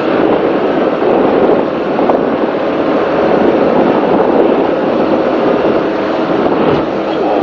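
Offshore racing powerboat under way at speed: engines running loud and steady amid the rush of wind and water.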